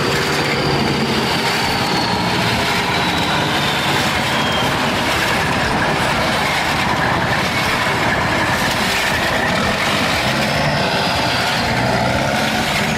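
A large vehicle or machine running steadily, a continuous dense mechanical noise with no pauses.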